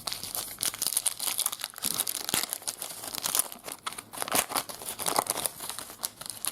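A trading card pack wrapper being torn open and crinkled by hand, with a dense run of rapid crackles throughout.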